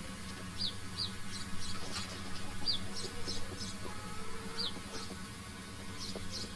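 Birds chirping: repeated short, high-pitched chirps, several of them falling in pitch, over a low steady hum.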